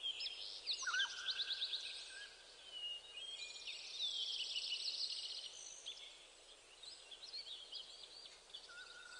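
Birds chirping and trilling, faint, with short high whistles and quick repeated trills over a soft background hiss.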